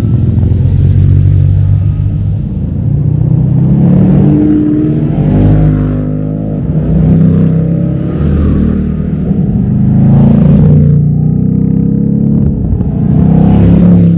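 Car engines accelerating hard, the engine note climbing and dropping again several times as they rev up and shift gears.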